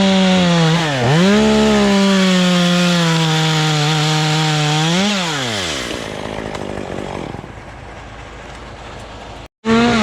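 Two-stroke chainsaw at full throttle cutting wood. It bogs down briefly about a second in and recovers, then revs down to a low idle around five seconds in. The sound drops out abruptly near the end before the saw is heard again.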